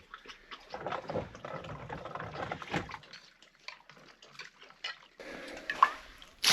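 Water splashing and pouring in irregular spells, with a quiet pause in the middle.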